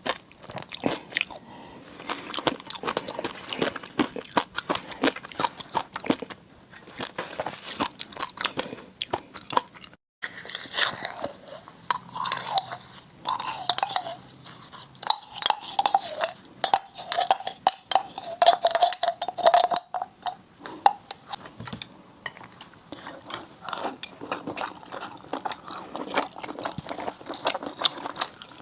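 Close-miked eating sounds from a seafood mukbang: dense crunchy bites and wet chewing, full of quick sharp clicks, with a brief break about ten seconds in.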